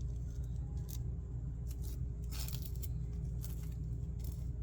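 Table knife spreading cream cheese on toasted bread: a few short, soft scrapes over a steady low hum.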